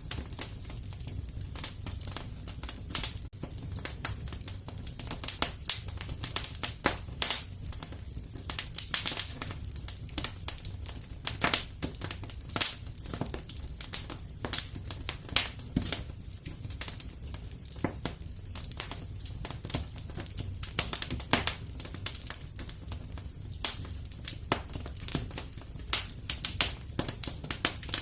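Wood fire crackling: irregular sharp pops and snaps over a low, steady rush of burning logs.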